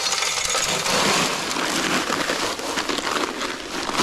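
A bag of dry concrete mix being emptied into a MudMixer's hopper: a steady rushing hiss of pouring powder and gravel.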